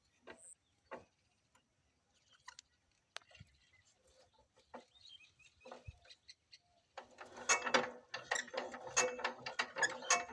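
Power tiller diesel engine catching about seven seconds in and running with a fast, loud clatter. Before that there are only scattered faint clicks and a high chirp.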